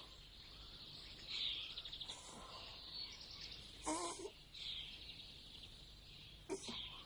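Birds calling: short high chirps and trills recurring every few seconds, with a louder, harsher call about four seconds in and a brief one near the end.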